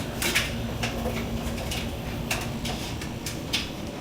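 Miele washing machine running: a steady low rumble with a faint hum that stops about two and a half seconds in, and irregular clicks and knocks throughout.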